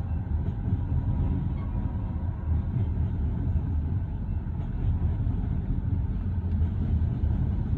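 Loaded coal train's hopper cars rolling past at slow speed: a steady, low rumble of steel wheels on rail.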